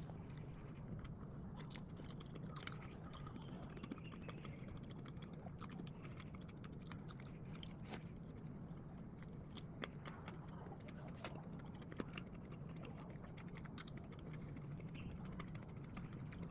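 A person quietly chewing and biting a hotdog with a chewy glutinous-rice batter and a sausage, with scattered small mouth clicks over a low steady hum.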